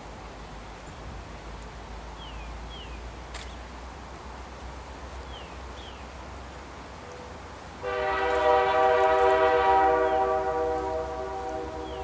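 Diesel locomotive air horn sounding one long blast of several notes at once, starting about two-thirds of the way in and easing off near the end. Before it, a bird chirps in short falling pairs.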